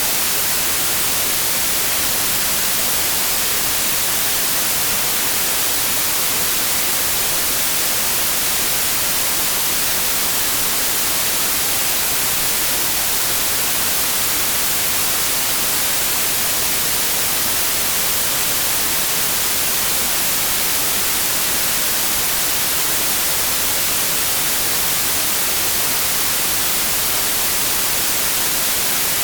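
Steady synthesized white noise: an even, unbroken hiss, brightest in the high treble, with no changes or events.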